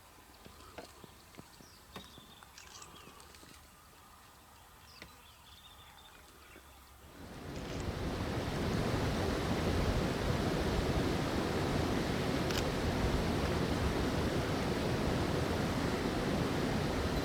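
Quiet bush ambience with scattered small bird chirps and a few clicks. About seven seconds in, a steady loud rushing noise cuts in and covers everything.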